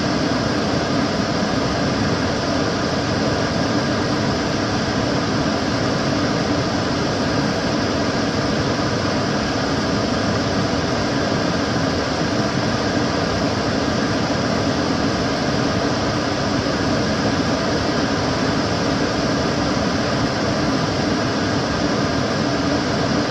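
Kitchen cooker hood's extractor fan running steadily: an even whoosh of moving air with a low hum, unchanging throughout.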